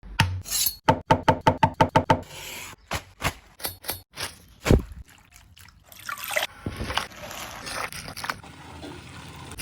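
Cooking sounds of utensils on kitchen surfaces: a quick, even run of knocks, about eight a second, then scattered single knocks and clatter, with a short hiss a little after the middle.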